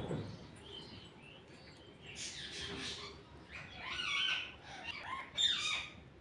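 Birds chirping in the background: a run of short calls that rise and fall in pitch, busiest over the second half. A soft low thump comes right at the start.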